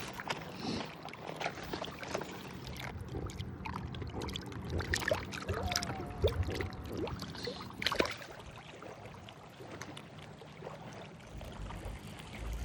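Lake water sloshing and trickling at the bank, with scattered small clicks and knocks from handling fishing gear.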